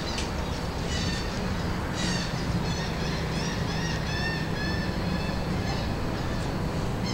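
Birds calling in a run of short, quick chirps over a steady low rumble.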